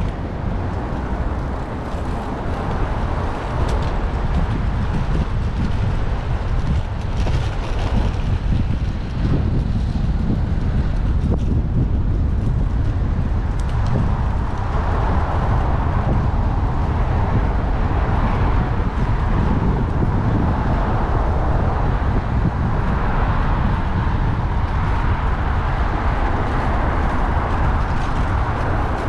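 City road traffic and tyre noise picked up by a camera mounted on a moving bicycle: a steady, continuous rumble with vehicles running alongside.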